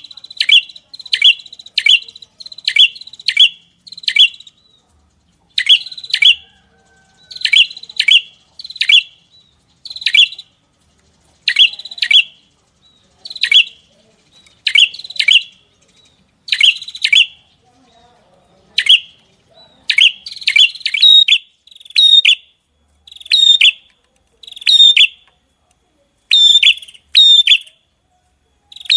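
A songbird calling loudly and repeatedly: short, sharp chirps that drop in pitch, about one to two a second, with a few brief gaps and quicker double notes near the end.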